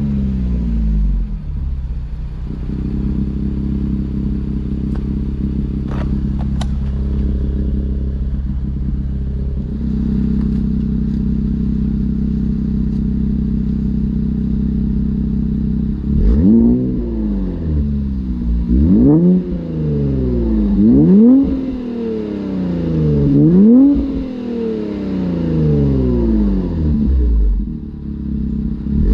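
Infiniti Q50 Red Sport 400's twin-turbo 3.0-litre V6, breathing through a Motordyne exhaust and AMS lower downpipes, idling steadily. About halfway through it is blipped in four quick revs a couple of seconds apart, each dropping back toward idle, and another rev starts near the end.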